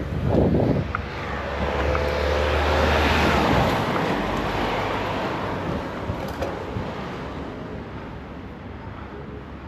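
A large vehicle passes close by: its low rumble and rushing noise swell to a peak about three seconds in, then fade away.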